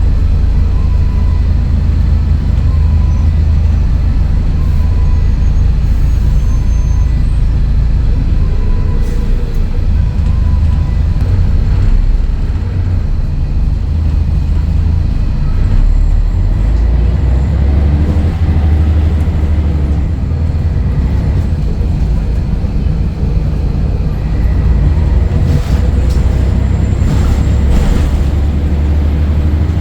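Scania DSC11 six-cylinder diesel engine of a Scania L113CRL bus running under way with a deep, steady drone that changes a few times as the load and gears shift. A few short knocks come near the end.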